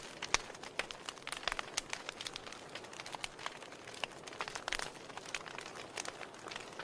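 Wood fire in a fireplace crackling: irregular sharp pops and snaps, several a second, over a steady soft hiss.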